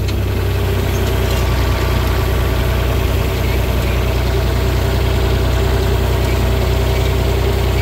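John Deere 4020 tractor engine running steadily while it pulls a hay rake.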